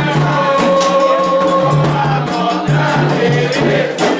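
A group of voices singing a Candomblé chant in long held notes over steady percussion with rattles.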